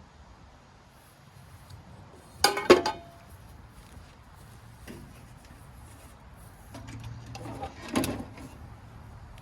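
Metal exhaust pipe pieces being handled and set down, clanking loudly about two and a half seconds in with a brief metallic ring, then knocking again near the end.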